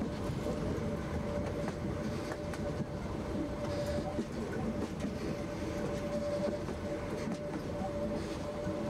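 Harz narrow-gauge train running along the track, heard from the carriage: a steady rumble with a thin high whine held through most of it and a few faint ticks.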